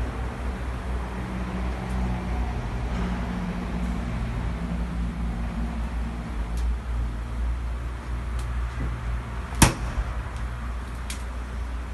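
A steady low mechanical hum, with faint clicks and one sharp knock about ten seconds in, like a door or hatch shutting.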